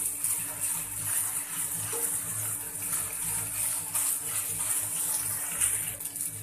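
Wheat noodles with vegetables, egg and chicken sizzling steadily as they are stir-fried over a high flame in a nonstick pan, turned with a wooden spatula.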